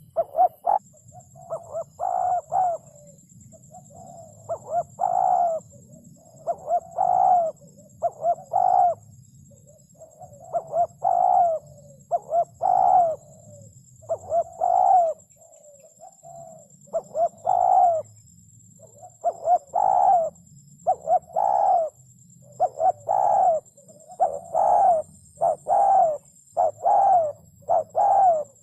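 Spotted dove cooing over and over in short phrases of two to four low hooting notes, a phrase every second or two. A faint steady high-pitched whine runs underneath.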